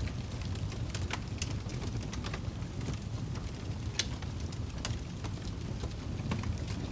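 Fire in a fireplace crackling: a steady low rumble of the flames with scattered sharp pops and snaps at irregular moments.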